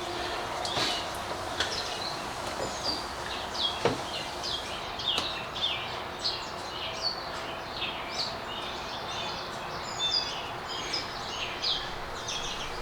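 Small birds chirping over and over in short, quick notes, over a steady hiss, with a single sharp knock about four seconds in.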